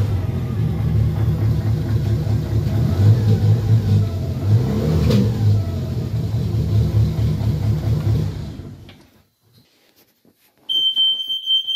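BMW N45B16 1.6-litre four-cylinder engine idling a little unevenly while still cold, typical of a remapped engine until it warms up; its sound dies away about eight and a half seconds in. Near the end a smoke alarm sounds one long, steady, high beep, set off by smoke from oil and grease burning off the new exhaust parts.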